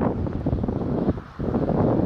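Strong wind buffeting the microphone: a loud, rumbling rush with a brief lull a little over a second in.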